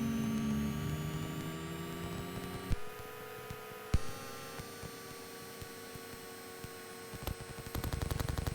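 Cessna Caravan's PT6 turbine engine starting up: a steady hum with a high whine that rises slowly in pitch for the first few seconds. A click about three seconds in and another a second later, after which the hum settles lower and steady.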